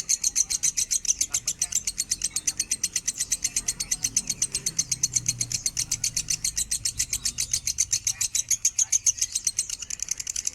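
Lovebird singing a long unbroken chatter of rapid high chirps, about eight a second, keeping a steady level throughout.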